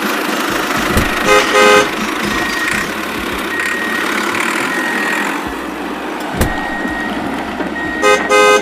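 Two quick double toots of a horn, about a second in and again near the end, over a steady engine-like running noise.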